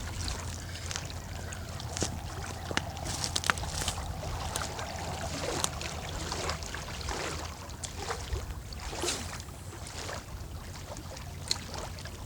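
Water lapping and sloshing at the bank, with wind on the microphone and scattered small clicks and knocks throughout.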